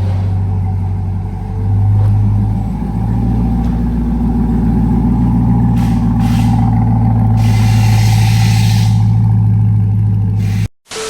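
C8 Corvette V8 running through an AWE Track Edition exhaust with a deep, steady exhaust note. The level swells briefly about two seconds in, then holds. The sound cuts off suddenly near the end.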